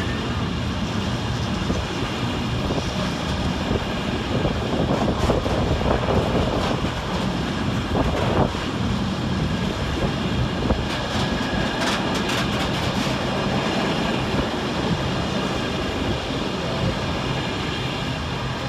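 A train rolling past, its wheels clicking over rail joints with a steady low hum underneath; the sound begins to fade at the very end.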